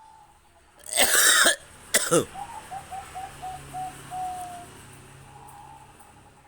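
A loud, harsh burst about a second in, then a sharp crack. After these a Bangkok-strain zebra dove (perkutut) coos: a quick run of about seven short clipped notes ending in one longer held note.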